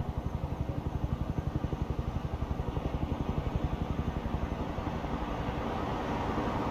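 A vehicle engine running with a low, rapid, even throb of about nine pulses a second, which gives way to a steadier, slightly louder rumble in the last couple of seconds.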